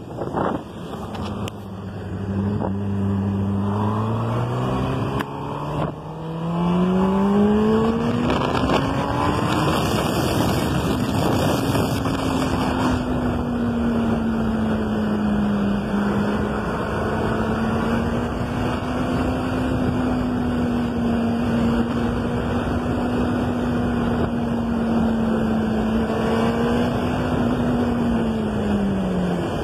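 An engine speeding up over the first ten seconds or so, then running at a steady high speed, easing off slightly near the end.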